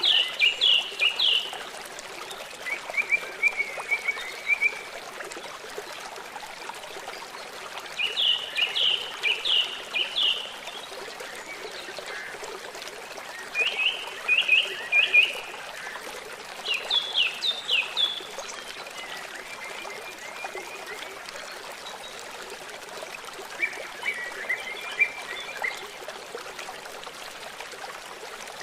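A songbird singing short phrases of rapid, downward-sweeping chirps, repeated every few seconds, with some phrases fainter and lower-pitched, over a steady background of trickling water.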